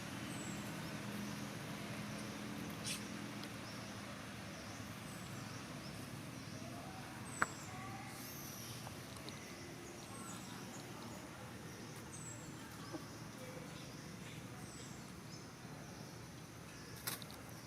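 Outdoor ambience: a steady background hiss with faint, short, high chirps repeating every second or two, a sharp click about seven seconds in and another near the end.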